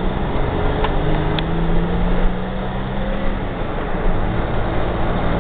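Car interior noise while driving: a steady hum of engine and tyres on the road, with the engine's tone shifting a little.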